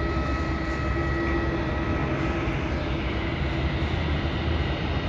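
Steady rumble of jet airliner engines at the airport, with a faint steady whine that fades out about two seconds in.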